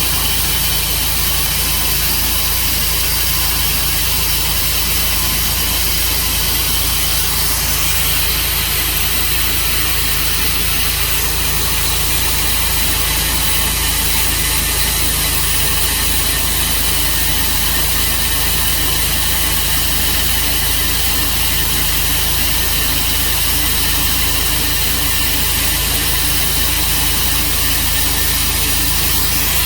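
Sawmill engine running steadily, with a constant hiss over it.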